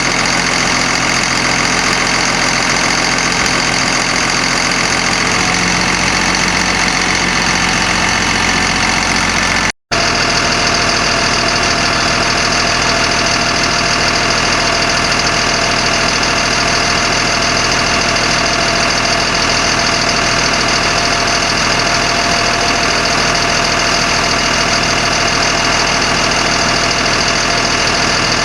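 Caterpillar diesel engine of a 1991 GMC Topkick bucket truck running steadily, with a momentary break in the sound about ten seconds in.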